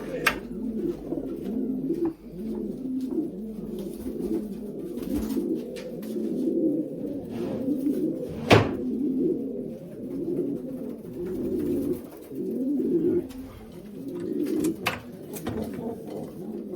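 Several racing pigeons cooing continuously in a small loft, their coos overlapping. A single sharp knock about halfway through stands out above the cooing.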